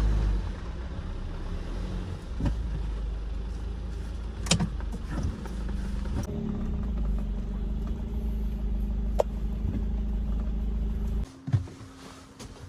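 Camper van engine running steadily while the van is manoeuvred to turn around, with a few sharp clicks along the way. The engine cuts off suddenly about eleven seconds in, followed by a single knock.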